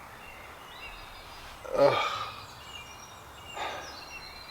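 A man's hesitating voice: two drawn-out, creaky filler sounds like 'erm', each falling in pitch, about two seconds apart. Faint high bird calls behind.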